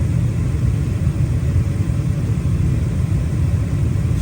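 Carrier gas furnace running with its burners lit and blower on, a steady low rumble.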